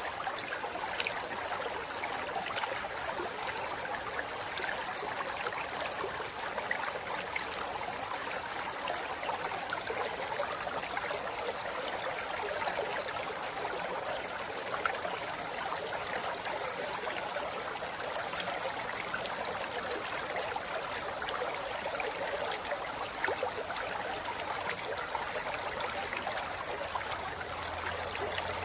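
Forest river flowing over rocks: a steady rush of water with fine splashing and gurgling.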